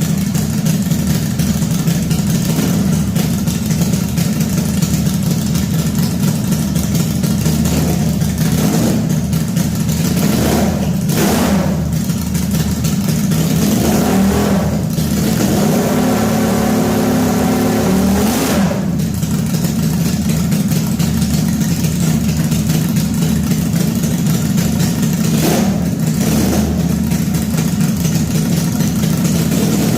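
Home-made V4 engine, built from scrapyard engines, running steadily and revved several times: short rises about a third of the way in, a longer held rev around the middle, and another rev near the end.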